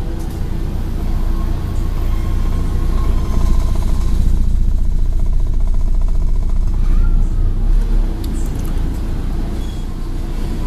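Scania N113 bus's diesel engine running as the bus drives, heard from inside the cabin. It grows louder about three seconds in and eases off again about eight seconds in.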